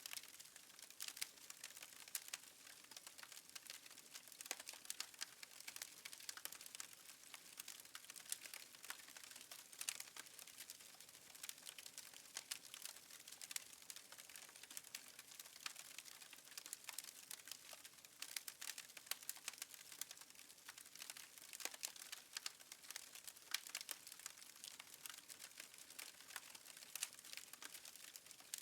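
Wood fire in a fireplace crackling faintly, with a dense, irregular stream of small pops and snaps.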